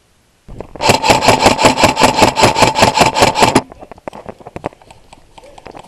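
Airsoft electric gun firing one full-auto burst of about three seconds, roughly eight shots a second over a steady whine, followed by scattered faint clicks.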